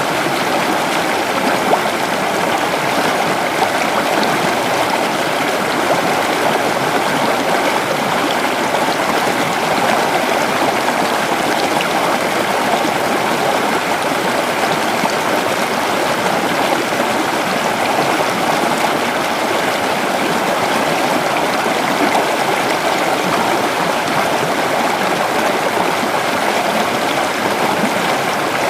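Creek water flowing steadily over rocks, a continuous rushing and babbling.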